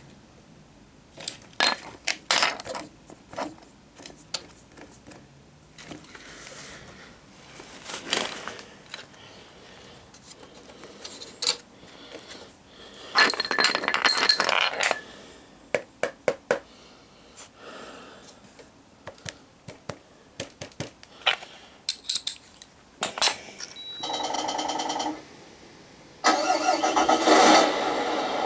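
Scattered clicks and rattles, then about 24 seconds in a short steady buzzing tone, and from about 26 seconds a louder, sustained pitched engine-like sound from the Tamiya Scania 770S model truck.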